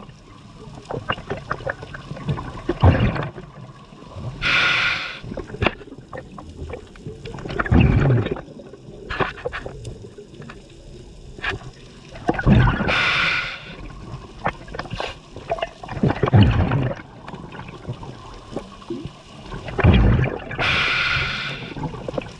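Scuba diver breathing through a regulator underwater: a hissing inhalation every eight seconds or so, with bursts of gurgling, crackling exhaled bubbles between them.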